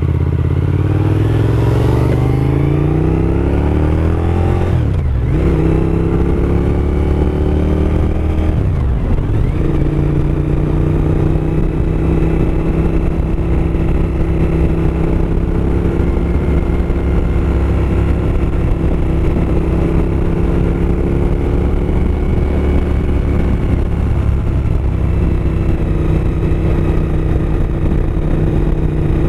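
2007 Suzuki SV1000S's 90-degree V-twin under way: the engine climbs in pitch while accelerating, drops briefly in pitch twice with gear changes about five and nine seconds in, then settles into a steady cruise.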